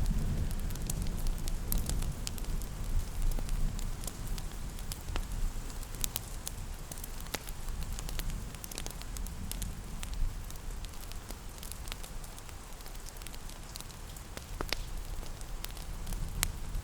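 Wood fire crackling in a fireplace, with sharp irregular pops and snaps, over a steady hiss of rain and a low rumble.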